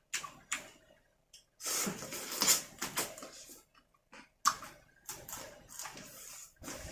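Close-up eating sounds: wet chewing and smacking with irregular clicks and crunches, as of seafood being eaten.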